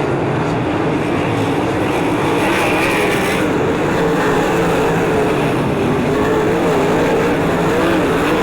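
A pack of 360 sprint cars racing on a dirt oval, their V8 engines running together at high revs in a loud, steady drone whose pitch wavers up and down as the cars go through the turns.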